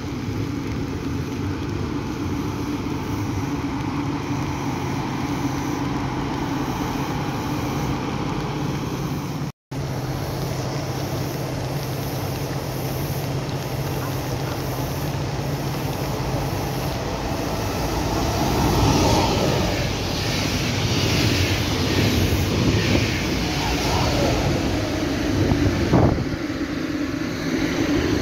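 Steady rain hiss with a low hum, then a train hauled by a red DB electric locomotive approaching and passing close by, its running noise growing louder from about two-thirds through, with brief squeals and a sharp clack near the end.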